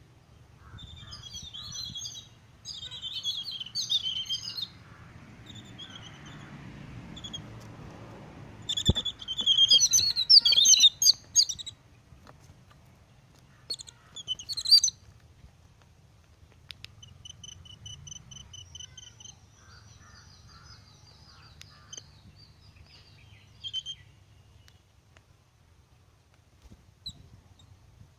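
Small birds chirping in irregular bursts, loudest about nine to twelve seconds in, then a quick run of evenly repeated notes a few seconds later. A faint, steady low rumble lies underneath.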